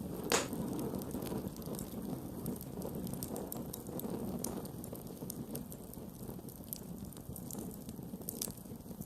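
Campfire burning: a steady low rush of flames with scattered crackles and pops of burning wood, one sharp pop about half a second in.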